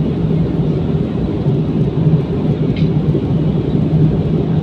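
Airliner cabin noise: a steady low rumble of engines and airflow heard from inside the cabin.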